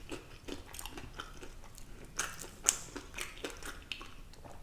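A person chewing food, with irregular small clicks and one louder click a little under three seconds in.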